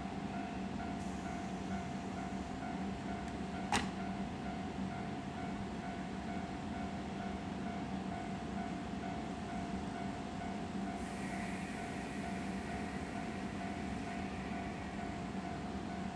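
Steady hum of a train at rest, its air-conditioning or auxiliary machinery running, with one sharp click about four seconds in.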